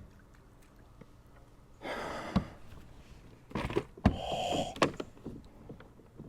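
Handling noise on a fishing kayak during a fight with a hooked fish: a few short rushing, splash-like noises and three sharp knocks in the middle of the stretch, one rush carrying a brief buzzing tone, with quiet between.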